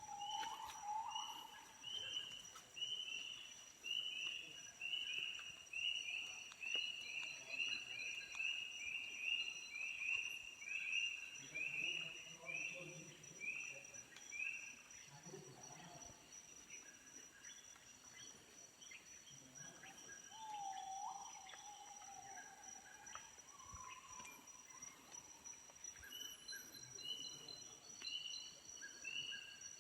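Tropical rainforest dawn chorus: a bird repeats a short note about twice a second over a steady high insect drone. A lower call comes in about two-thirds of the way through.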